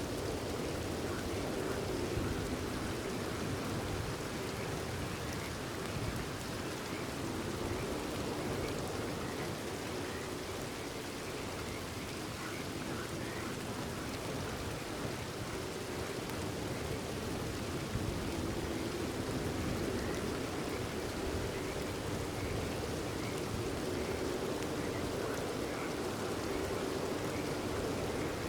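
Steady rain falling, with a chorus of frogs calling underneath that swells and fades.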